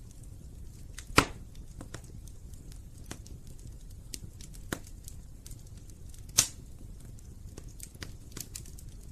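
Wood fire crackling in a fireplace, with scattered small pops over a low steady rumble and two sharp loud snaps, about a second in and past six seconds in.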